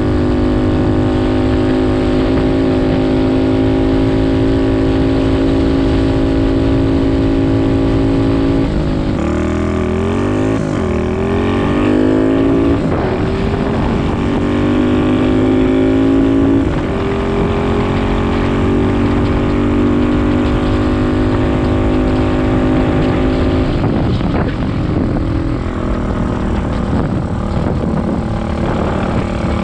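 125cc pit bike engine running at steady revs while under way. Its pitch drops and climbs back again about ten seconds in, then rises near the end.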